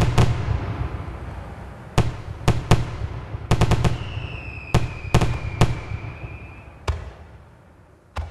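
Fireworks bursting in the air: sharp bangs come in quick clusters, each followed by crackle. A whistle sounds for about three seconds in the middle, falling slightly in pitch. The bangs thin out and fade near the end, with one last short pop.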